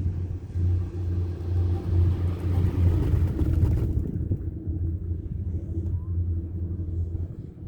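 Low, steady rumble of a four-seater chairlift's machinery, with a hiss that cuts off suddenly about four seconds in.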